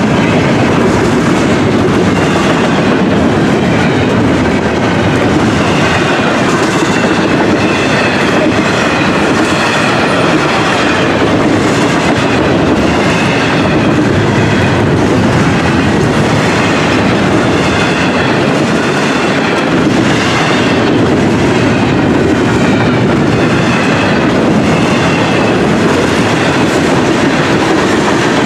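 Florida East Coast Railway freight cars rolling past at close range: a steady, unbroken noise of steel wheels running on the rails.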